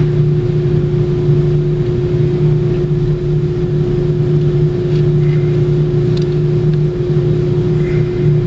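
A steady mechanical hum: one constant mid-pitched tone over an even low drone, unchanging throughout.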